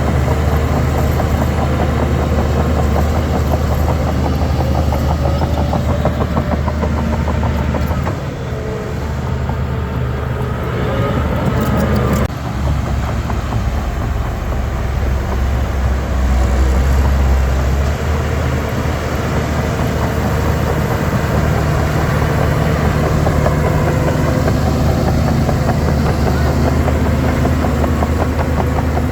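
Diesel engine of a Shantui DH17 C3 bulldozer working, a steady deep drone that eases off about eight seconds in, changes abruptly around twelve seconds and swells again a few seconds later.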